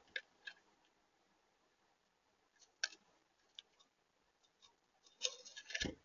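Faint sharp ticks and clicks at a bird feeder's seed tray. Near the end comes a quick flurry of rustling clicks and a soft thump as a small bird's wings flutter and it lands on the feeder.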